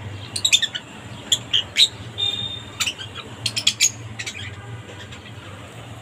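Bird chirping: clusters of short, sharp, high chirps for about four seconds, with one briefly held note in the middle.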